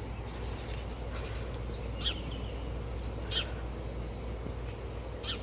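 A parent bird near its nest calling in a few short, high chirps spaced a second or more apart, over a low, steady outdoor background rumble.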